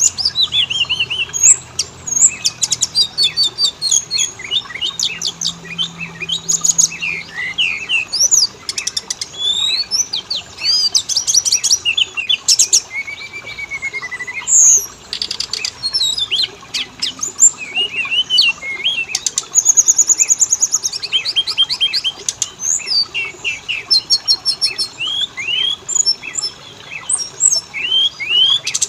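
Oriental magpie-robin (kacer) song: a loud, continuous stream of varied whistles, rapid trills, up- and down-sweeping notes and sharp chattering calls with hardly a pause.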